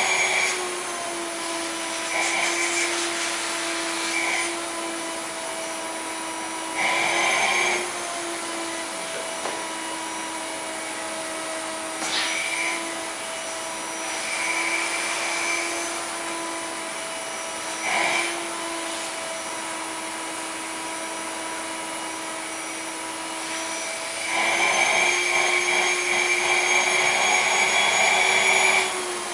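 Vacuum cleaner running with a steady motor hum and airflow hiss. Several times the hiss swells louder for a second or two, and the longest loud stretch comes near the end.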